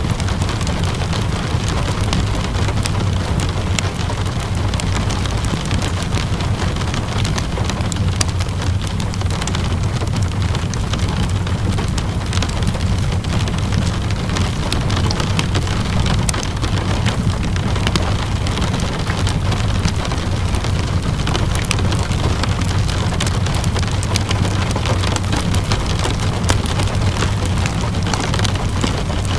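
Ambient mix of steady rainfall and a crackling wood fire. The rain hiss is even, with a low rumble beneath, and many small sharp crackles run through it.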